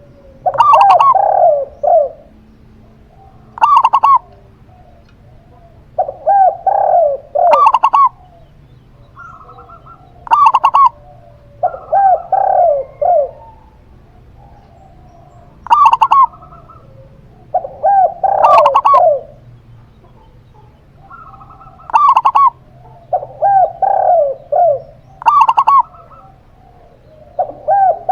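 Zebra dove (perkutut) and spotted dove (tekukur) cooing: short phrases of several quick notes, repeated every couple of seconds.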